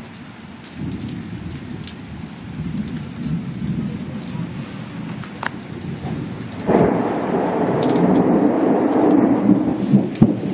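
Thunder rumbling, then breaking into a much louder rolling peal about two-thirds of the way through, with rain falling.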